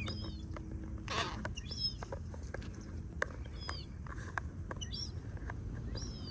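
Small birds giving short, high, curved chirps, repeated every half second to a second, over a steady low rumble. A short noisy burst comes about a second in.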